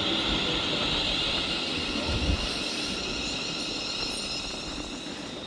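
London Northwestern Railway Class 350 Desiro electric multiple unit running into the platform and slowing, a steady hiss and high whine that gradually fade, with a brief low thump about two seconds in.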